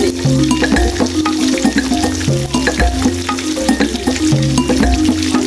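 Oil sizzling and crackling as food fries in a pot, under background music with a bass figure that repeats about every two seconds.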